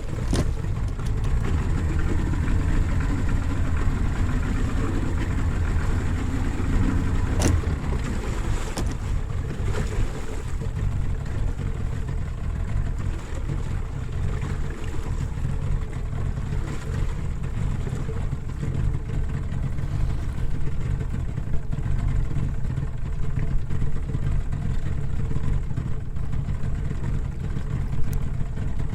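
Boat's outboard motor running steadily with the boat under way, a heavy low rumble with wind and water noise. One sharp knock about seven seconds in.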